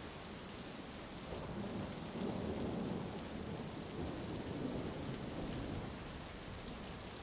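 Steady heavy rain with a low roll of thunder that swells about a second in and dies away near the end.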